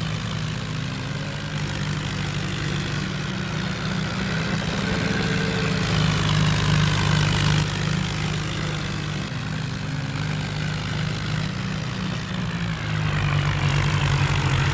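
Mahindra tractor's diesel engine running with a steady low drone, getting a little louder near the end.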